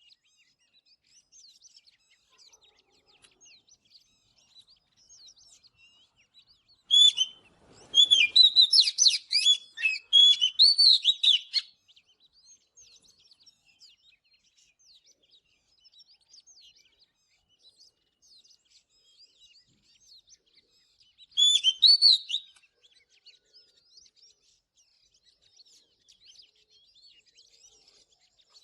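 Oriental magpie-robin singing: a burst of quick, varied phrases lasting about five seconds, starting about seven seconds in, and a short phrase about twenty-one seconds in, with faint scattered chirps between.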